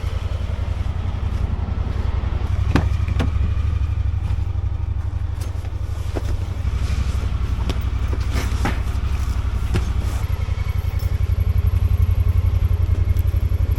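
Engine idling steadily with a low, even rumble. Several sharp knocks and clatters from gear being handled and loaded sound over it.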